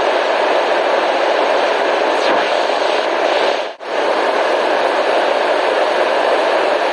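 Steady white noise, an even hiss strongest in the middle range. It briefly fades out and back in about four seconds in.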